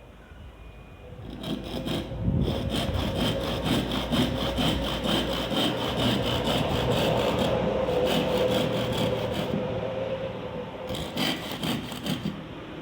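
Saw cutting through bamboo: a quick, steady run of strokes that starts about a second in and eases off near the end.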